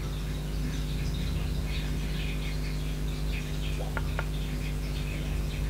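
Two small clicks close together about four seconds in, from a thumb pressing the dimmer button on the base of a Sony LF-S50G smart speaker, which steps the clock display's brightness. A steady low hum and faint high chirps sit underneath.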